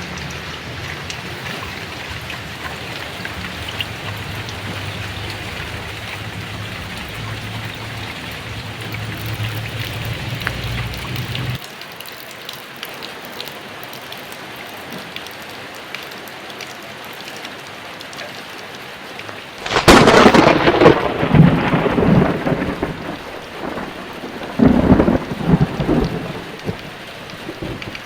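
Heavy rain pouring steadily, with a low rumble under it that stops abruptly about a third of the way in. About two-thirds in, a sharp, loud thunderclap rolls into rumbling, and a second peal of thunder follows a few seconds later.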